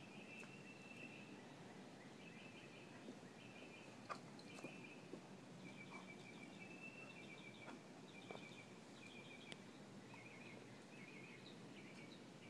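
Faint outdoor quiet with a bird chirping in short, rapid trilled phrases, one after another with brief gaps, and a few faint clicks.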